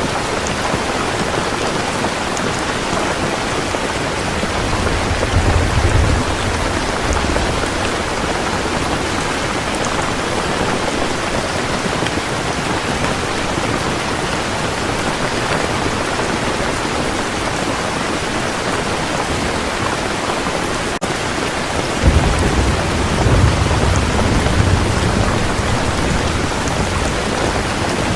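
Heavy rain falling steadily, with a low rumble of thunder about five seconds in and a longer rolling rumble near the end.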